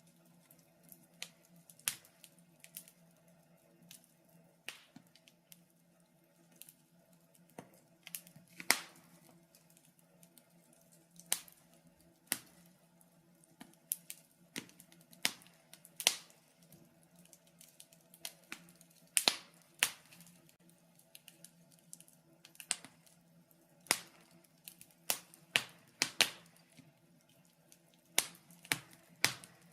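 Wood fire in a fireplace crackling: irregular sharp pops and snaps, a handful of them louder, over a faint steady hum.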